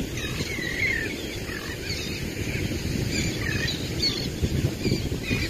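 Birds calling in repeated short chirps over a steady low rumble of wind on the microphone.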